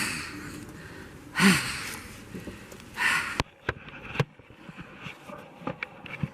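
A person sniffing and breathing hard in the cold: three noisy breaths about a second and a half apart, followed by a few sharp clicks.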